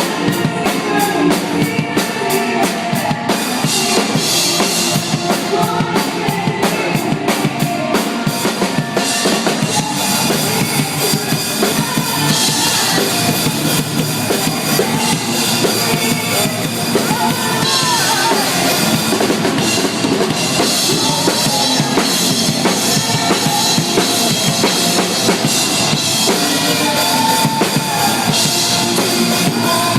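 Live band playing a song, with the drum kit loud in the mix: kick drum, snare and cymbals driving a steady beat. The first several seconds carry a fast, even run of drum hits.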